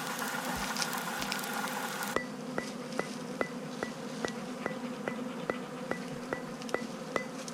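Honeybees buzzing steadily around the hive. About two seconds in the sound changes and a regular ticking begins, about two and a half clicks a second.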